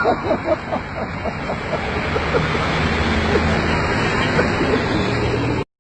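Motor vehicle running with road noise and wind buffeting the microphone, a low engine hum growing stronger about two seconds in; the sound cuts off suddenly near the end.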